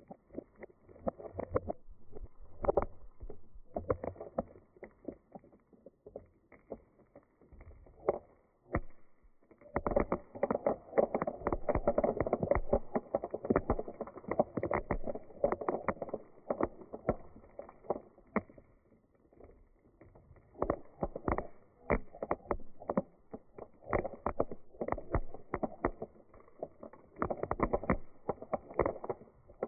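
Dried beans rolling and rattling: a dense patter of small clicks that swells and ebbs in waves, loudest about a third of the way in and again near the end.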